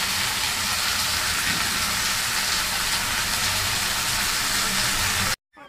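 Mango pieces sizzling steadily in hot oil in a kadai on a gas stove. The sound cuts off abruptly near the end.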